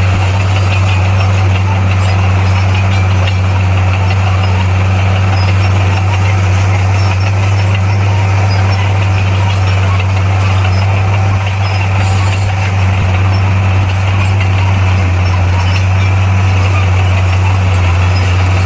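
Bulldozer's diesel engine running at a steady speed, a constant low drone, with some faint squealing that is typical of crawler tracks.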